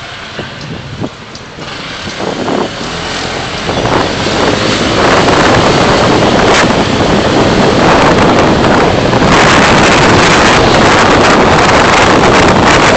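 Car driving, recorded by a dashcam: road and wind noise as a loud, even rush with no clear engine note. It grows louder over the first five seconds or so, then holds steady.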